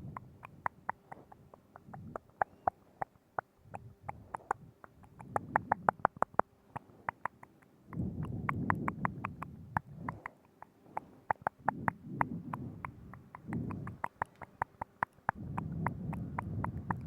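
Close-miked ASMR mouth sounds: rapid wet tongue and lip clicks, several a second, with a few longer stretches of low, rumbling wet noise in between.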